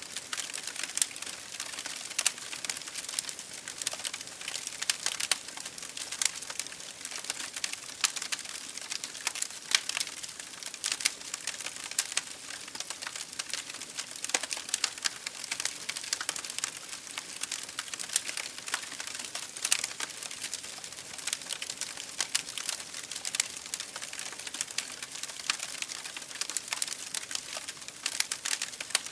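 Wood fire burning in an open fireplace, crackling and popping irregularly over a soft hiss.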